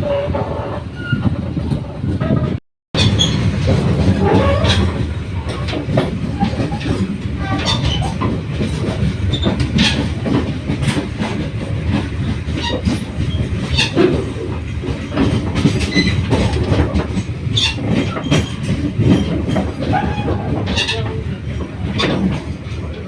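Passenger train rolling into a station: a steady rumble with the wheels clacking over rail joints and points and some faint wheel squeal. The sound cuts out completely for a moment about 3 seconds in.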